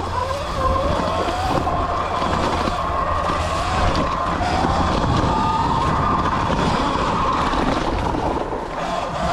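Sur Ron X electric dirt bike's motor whining, its pitch rising and falling with the throttle, over wind rush on the microphone and knocks from the rough trail.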